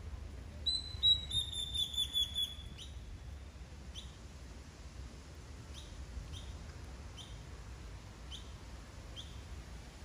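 A bird singing a quick run of about eight clear, falling whistled notes, then giving single short chirps about once a second.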